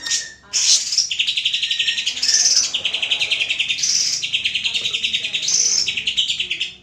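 Greater green leafbird (cucak hijau) singing a long run of fast, buzzy trilled phrases, high in pitch and linked by short breaks. The song stops just before the end.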